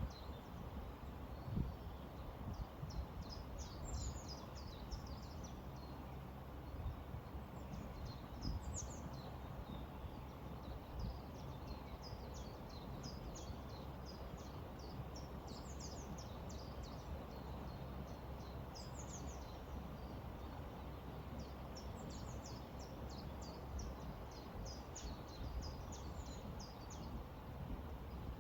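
River water flowing with a steady rush, with small birds chirping and singing above it in many short, high notes throughout.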